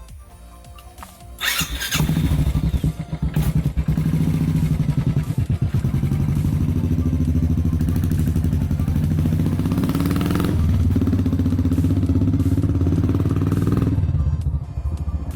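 Single-cylinder engine of a Royal Enfield Bullet 500 motorcycle, coming in suddenly about a second and a half in and running steadily with an even pulsing beat, then cutting off near the end, with background music underneath.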